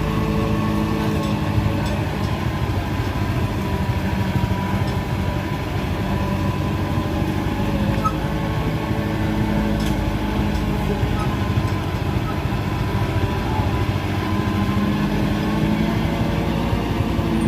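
Mitsubishi light truck's diesel engine running steadily under load, its engine note holding nearly level and shifting slightly in pitch near the end.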